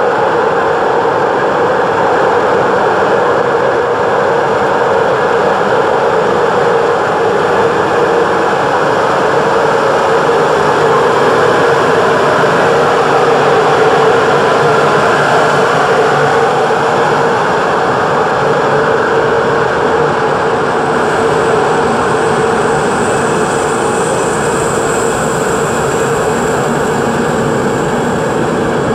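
A train running at close range: a steady, loud rumble with a constant hum, swelling a little around the middle. A faint high thin tone joins in over the last several seconds.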